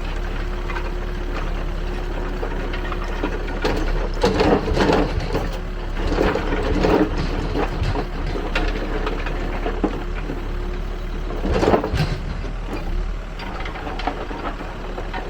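Backhoe loader's diesel engine running steadily, with several bouts of clattering from soil and rubble tumbling in a Gyro Star three-star roller screening bucket as the rollers spin.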